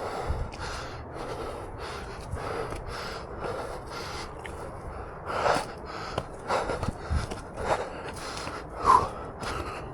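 A man breathing hard, with irregular heavy breaths and gasps, while scrambling up a steep trail on foot.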